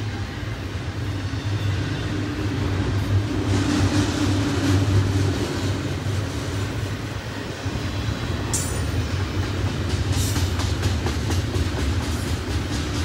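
Double-stack intermodal container cars rolling past: a steady low rumble of steel wheels on rail, with sharp clicks and clacks over the rail joints, most of them in the second half.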